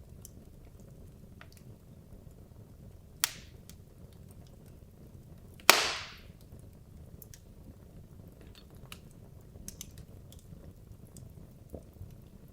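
Wood logs burning in a fireplace: the flames make a steady low rumble, with scattered small crackles. A sharp crack comes about three seconds in, and a louder pop with a brief hiss comes near the middle.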